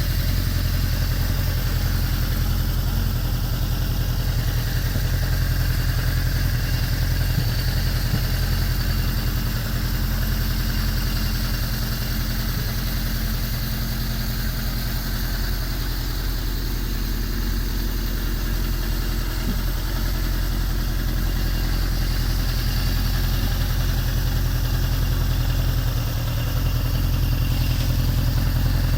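Suzuki GSX1100S Katana's air-cooled inline-four idling steadily through an aftermarket Asahina muffler, getting slightly louder near the end.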